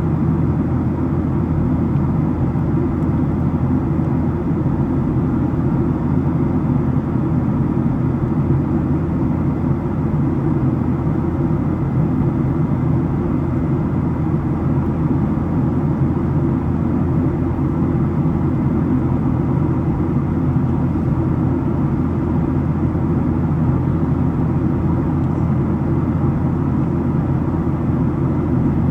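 Steady low cabin drone inside a Boeing 737-700, holding at one level throughout.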